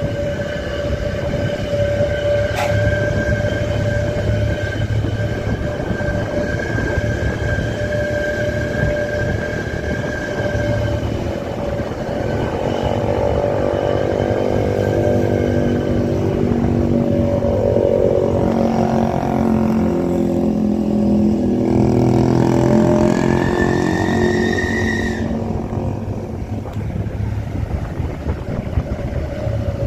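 Truck engine and drivetrain running on the move, with a steady whine over a low rumble; about halfway through the engine note rises and falls for several seconds as it changes speed.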